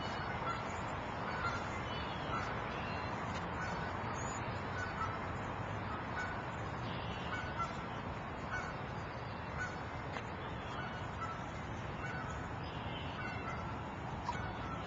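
A bird calling repeatedly, a short call about once a second, over a steady outdoor hiss.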